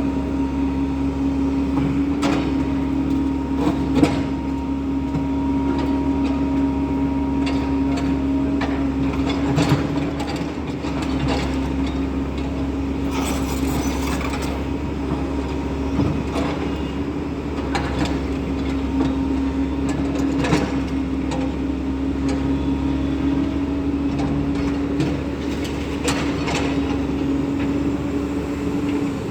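SANY SY140 excavator's diesel engine running steadily under working load, with occasional sharp knocks and clicks from the machine at work.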